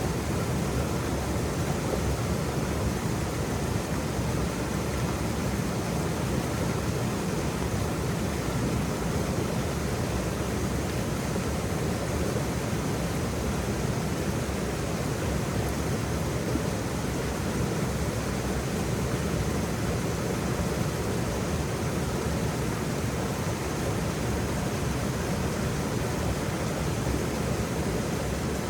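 Waterfall: a steady, even rush of falling water, deepest in the low end, with no separate splashes standing out.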